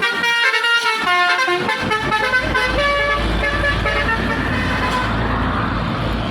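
Multi-tone truck horn (telolet-style) playing a stepping, changing melody for the first couple of seconds. It is followed by the low, steady rumble of a heavy diesel truck engine working past.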